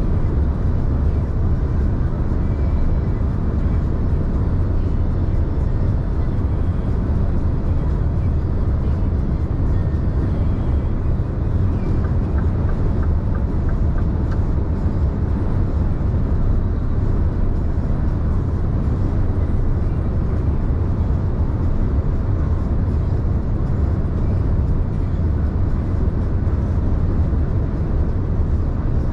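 Scania truck running on the move: a steady, loud, deep engine and road rumble that does not change.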